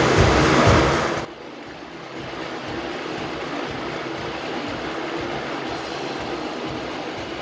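Motorcycle engines in a circus cage running loud, then dropping off sharply about a second in to a lower, steady engine rumble with a faint low pulse.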